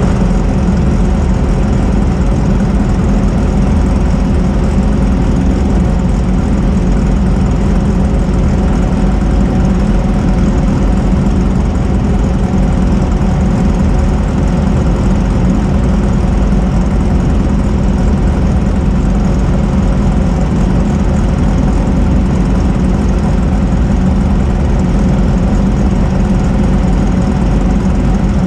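Off-road race car's engine running steadily, holding an even pitch with no revving.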